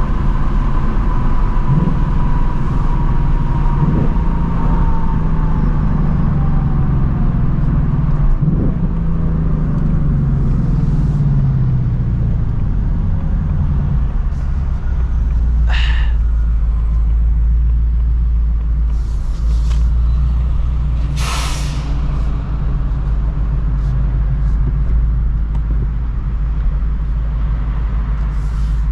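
2024 Ford Mustang GT's 5.0-litre V8 with active exhaust, its engine note falling steadily as the car slows, then settling into a steady low idle about halfway through. Two short bursts of hiss come later on.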